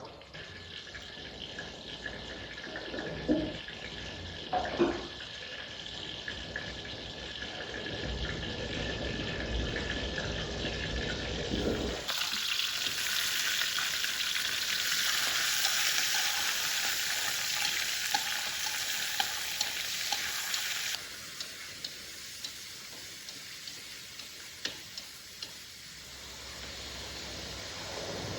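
Food frying in hot oil in a pan, a steady sizzle with a few knocks early on. The sizzle jumps much louder and brighter about twelve seconds in and falls back about twenty-one seconds in.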